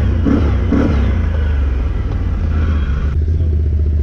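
Can-Am 1000 off-road vehicle's V-twin engine running loud, with a few throttle swells in the first second. A rushing hiss over it cuts off suddenly about three seconds in.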